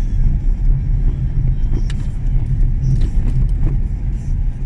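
Car cabin noise while driving: a steady low rumble of engine and tyres, with a few short knocks and rattles from the car.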